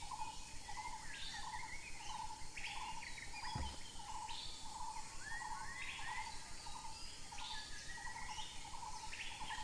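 Birds chirping again and again over an insect-like ticking pulse that repeats about twice a second, with one low thump about three and a half seconds in.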